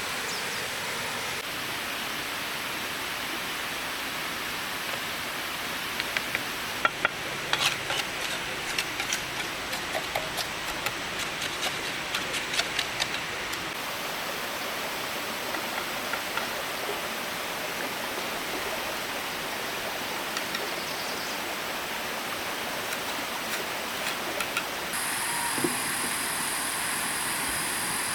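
Steady rushing of flowing stream water, with a run of sharp clicks and knocks in the middle.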